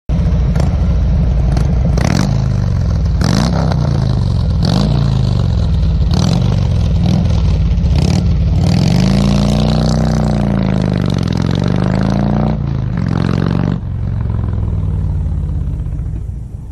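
A motor vehicle engine running hard and revving. Its pitch climbs and drops again and again, with sharp breaks about every second or so, then sweeps up and down twice near the middle.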